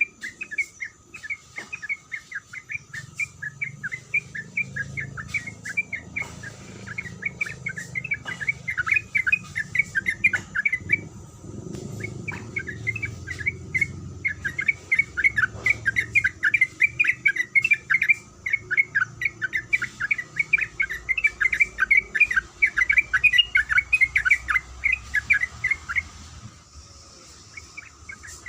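Yellow-vented bulbul (trucukan) singing a long, fast, chattering string of warbled notes, with a brief break about eleven seconds in and another near the end.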